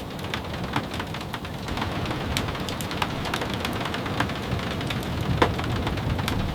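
Steady rain with many irregular sharp taps of drops, over a low steady rumble.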